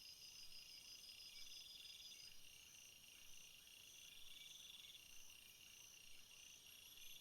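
Faint chorus of field insects stridulating, several high trills overlapping. One buzzing trill starts and stops every few seconds.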